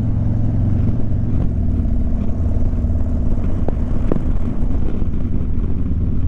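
Harley-Davidson V-twin motorcycle engine running steadily at road speed, a deep even rumble with wind and road noise over it.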